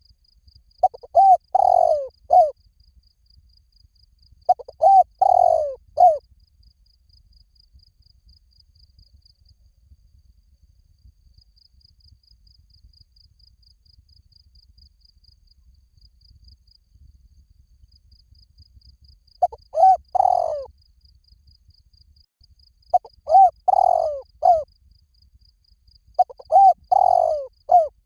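Spotted dove cooing: phrases of three or four mellow, bending coos, each phrase about a second and a half long, repeated every few seconds, with a long pause in the middle. A faint, fast, high pulsing chirp runs underneath.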